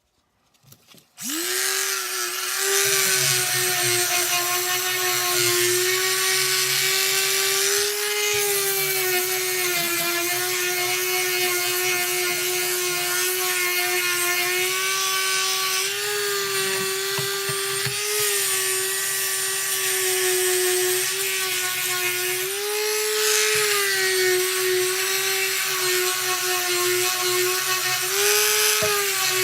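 Electric palm sander with 100-grit paper starts about a second in and runs steadily, sanding rust off a steel axe head. Its hum holds one pitch that shifts briefly a few times.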